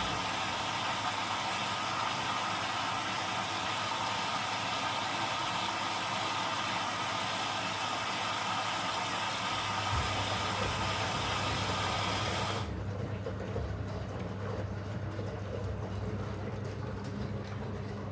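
Zanussi DL22 washing machine running on a 90 °C boil wash: a steady rushing hiss over a low hum. The hiss cuts off suddenly about thirteen seconds in, while the hum carries on.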